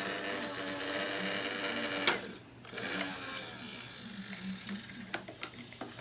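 Toy garbage truck's small motor whirring steadily, then stopping with a sharp click about two seconds in; a few light plastic clicks follow near the end.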